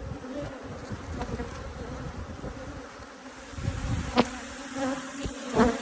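Dense cloud of Africanized honeybees buzzing steadily around a hive being worked. There is a sharp knock about four seconds in and a couple of lighter bumps near the end.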